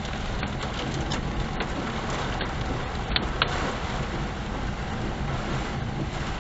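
Steady rushing noise of a car out in a storm, with a few sharp ticks; the two clearest come close together a little after three seconds.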